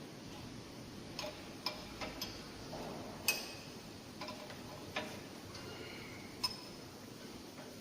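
Sharp metallic clicks at irregular intervals from the steel circular saw blade on a sawblade grinder, each followed by a brief ring of the blade, over a low steady machine hum.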